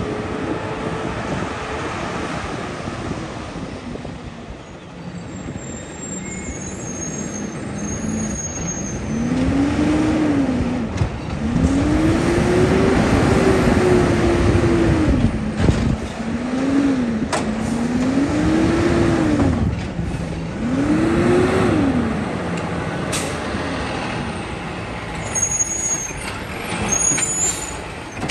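Garbage truck's diesel engine revving up and dropping back about five times in a row, the rhythm of the engine being run up to power the hydraulic lift and packer. Short high squeals sound near the start and again near the end.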